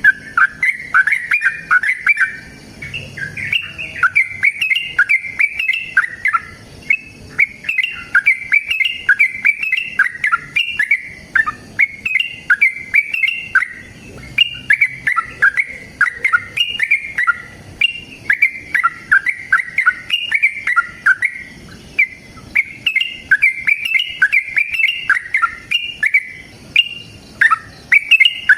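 Yellow-vented bulbul (trucukan) giving its long, rapid fighting song: a fast, unbroken string of short bubbly chattering notes, with one brief lull about three-quarters of the way through.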